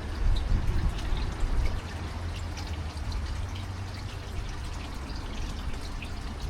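Water pouring steadily with scattered drips, over a low rumble.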